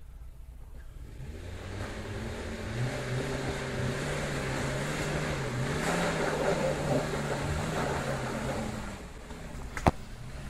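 A small 4x4's engine pulling up a steep, rutted dirt lane under load. It grows louder as the vehicle approaches, its note wavering up and down, and eases off about nine seconds in. A single sharp knock comes near the end.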